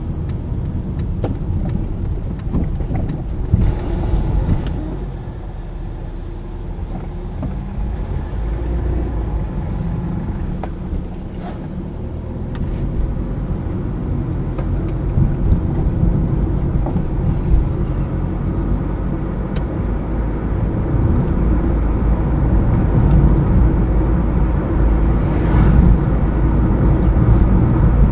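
Car driving on a highway: steady low engine and tyre rumble, growing gradually louder over the last third. A faint regular ticking runs through the first few seconds.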